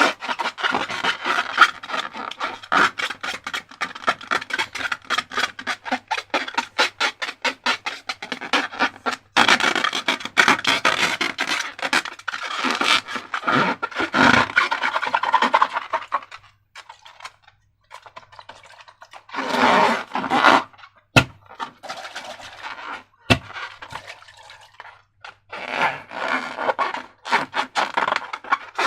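Slime being worked and squished, with fast sticky clicking for the first nine seconds or so, then softer squelching in bursts with pauses. Two sharp clicks come later on.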